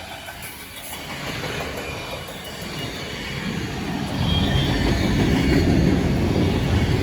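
Freight train rolling past, a steady rumble of wheels on rail that grows louder about four seconds in.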